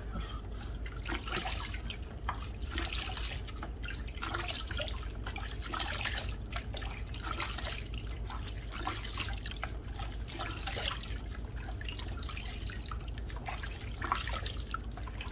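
Water from a tap running into a sink while hands splash it onto the face, rinsing off foam cleanser, in irregular splashes.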